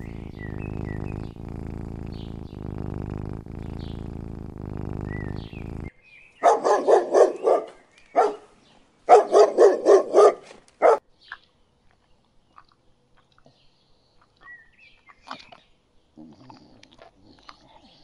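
A cat purring in steady cycles of about a second, then a dog barking in two quick runs of several barks each with a single bark after each run.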